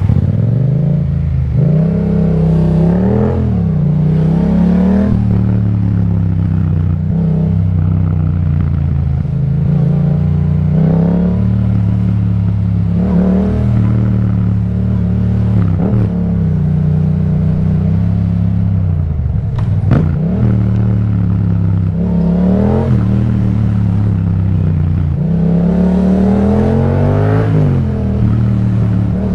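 Yamaha MT-07's parallel-twin engine through an Akrapovic exhaust under way, revving up and easing off again and again, its pitch climbing and dropping every few seconds. A single sharp click about twenty seconds in.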